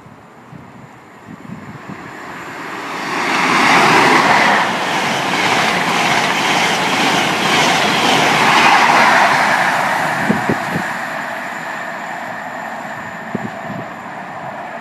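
Passenger train running past the platform: a rush of wheels on rail that builds over the first few seconds, holds loud with a rapid clatter of wheels over the rail joints, then fades away in the second half.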